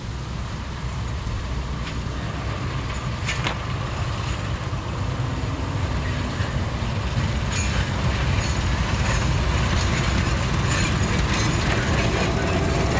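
Narrow-gauge sugar cane train, a diesel locomotive hauling cane wagons, approaching. Its low rumble grows steadily louder, and rail clicks and knocks come more often in the second half.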